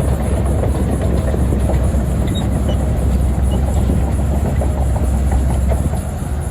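Diesel engine of a tracked earth-moving machine running loud and steady, with a fast, continuous clatter of steel tracks over it.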